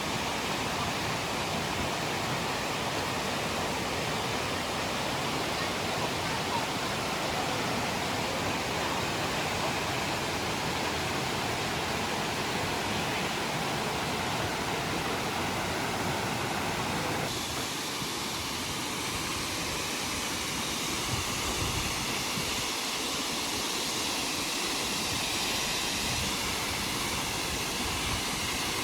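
Steady rush of mountain water at Aber Falls, a dense, even hiss. About two-thirds of the way through it changes abruptly, becoming thinner in the low end and brighter.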